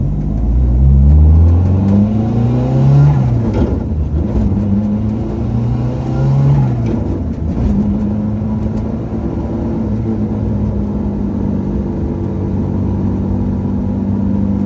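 Lancia Delta Integrale Group A rally car's turbocharged four-cylinder engine pulling through the gears: the revs climb and drop with each shift a few times, then hold steady.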